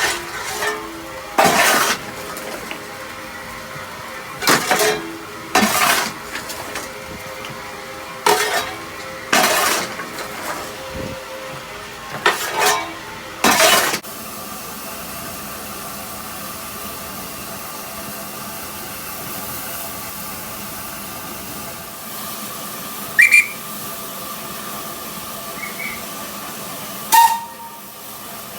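Steam locomotive standing in steam, with a steady hiss throughout. In the first half come about eight short, loud bursts of noise, each under a second. The second half holds the hiss alone, apart from two brief sharp sounds near the end.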